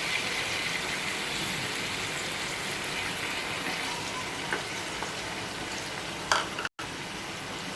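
Chicken pieces frying in hot oil in a kadai, a steady sizzling hiss, with a couple of light utensil knocks and a split-second break near the end.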